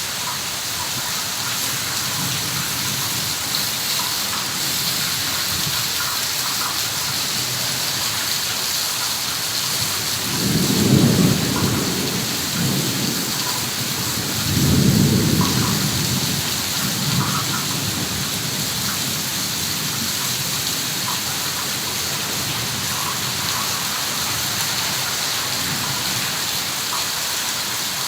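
Heavy rain falling steadily, with two low rolls of thunder, the first about ten seconds in and the second about fifteen seconds in.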